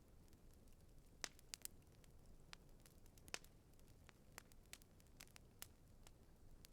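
Wood campfire crackling softly: irregular sharp pops and snaps over a low, quiet burn, with the loudest snaps about a second in and again a little past three seconds.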